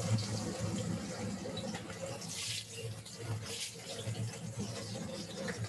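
Panko-crusted pork tenderloin cutlets sizzling as they pan-fry in hot oil, a steady hiss with brief brighter crackles. A steady low hum runs underneath.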